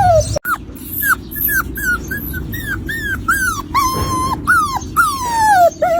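A puppy crying: a quick run of short, high whimpers that each fall in pitch, about two a second, with one longer held whine about four seconds in and a long drawn-out falling whine just after.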